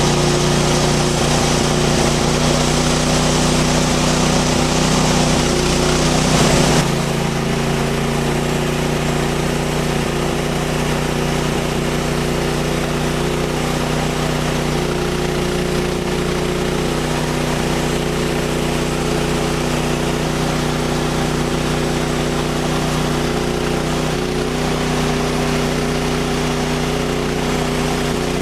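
Portable bandsaw sawmill running steadily, its gasoline engine driving the band blade through an ash log on the lap-siding cut. The sound shifts slightly about seven seconds in and then holds steady.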